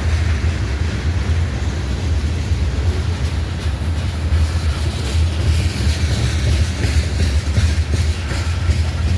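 Norfolk Southern freight train rolling past, a steady loud low rumble of wheels on rail.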